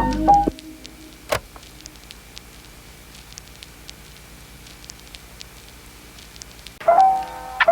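Campfire crackling, with scattered small pops and one louder snap about a second in. Piano music fades out just after the start and comes back near the end.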